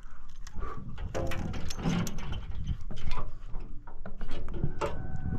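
A busy run of clicks, knocks and rattles from gear being handled on a boat, with a couple of short squeaks.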